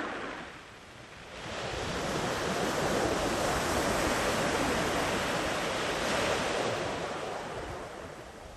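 Sea waves breaking and washing up the shore. A wave breaks right at the start and is followed by a short lull; about a second and a half in, a long surge of surf swells up, then fades toward the end.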